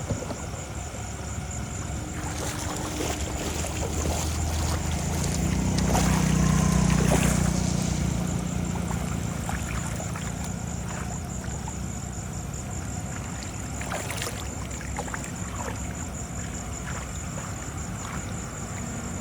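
An engine running steadily, growing louder about six seconds in and then easing off again, with scattered knocks and a steady high pulsing tone over it.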